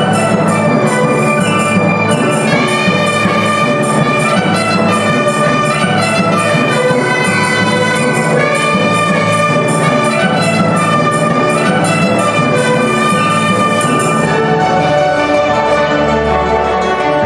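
A Chinese traditional orchestra playing a loud, full passage with a bright, brass-like melody over a steady beat of percussion strokes. The high percussion drops out near the end.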